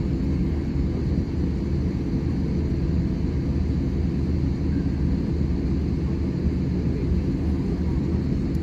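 Steady low rumble of cabin noise inside an Airbus A320-200 airliner.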